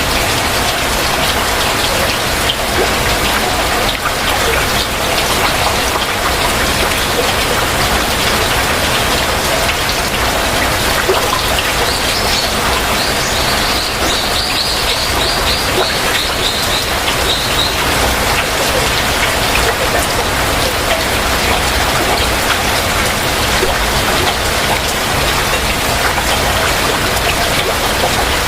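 Heavy rain falling steadily. About halfway through, a bird sings a rapid series of short repeated high notes for some five seconds over the rain.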